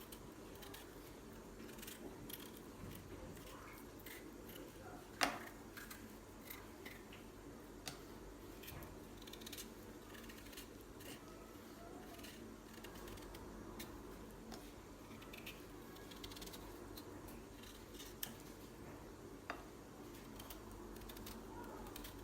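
Potatoes being peeled by hand: a run of small, quick scraping cuts, with a sharper knock about five seconds in and a few lighter ones later.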